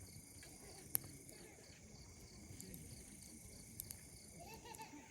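Faint steady chirring of insects, crickets, under a wood campfire giving a few sharp pops, one about a second in and a couple near four seconds.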